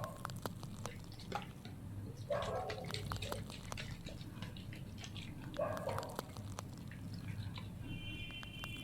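Close-miked ASMR water sounds: small drips and wet clicks scattered throughout, with soft bubbling splashes about two and a half and six seconds in. A steady low hum runs underneath, and a brief high ringing tone comes near the end.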